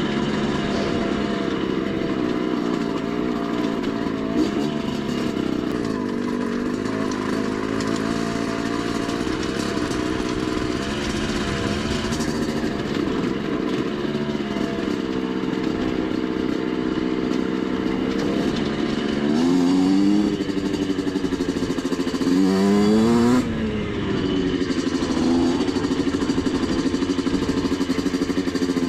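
Rieju MRT 50's 50cc two-stroke engine running, its pitch wandering up and down with the throttle. About two-thirds of the way through come two quick revs that rise sharply in pitch and are the loudest moments.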